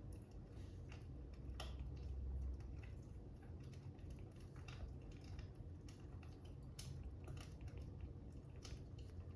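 Soft fire crackling: scattered small pops at irregular intervals over a low steady rumble.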